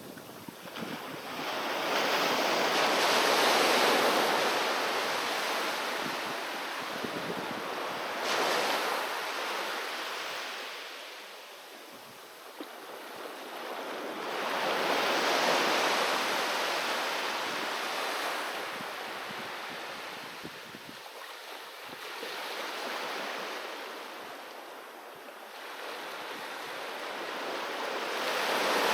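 Waves breaking on a beach and washing back, swelling and ebbing in slow surges every five to seven seconds.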